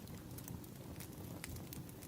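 Burning firewood crackling: a few small, sharp pops scattered over a steady low rumble of the fire.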